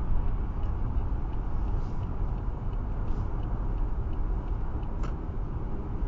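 Steady in-cabin road noise of a car at motorway speed: a low rumble of tyres on wet tarmac and engine, with faint scattered ticks and a sharper click about five seconds in.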